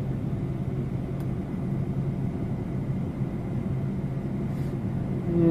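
Steady low hum of an SUV's engine and tyres heard inside the cabin while driving.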